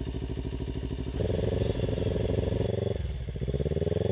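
Kawasaki Ninja 300's parallel-twin engine running under a learner rider. It gets louder about a second in as the throttle opens, eases off briefly near three seconds, then picks up again near the end.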